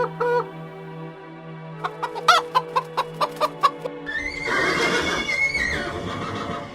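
Chickens clucking in a quick run of short calls, then one longer, harsher call about four seconds in, over background music.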